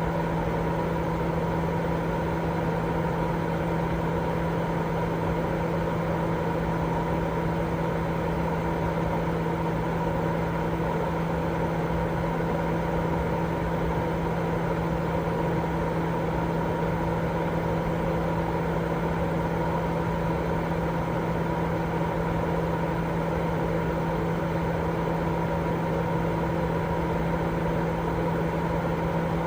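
Continuous baby-sleep white noise: an even, unchanging hiss with a steady low hum running through it.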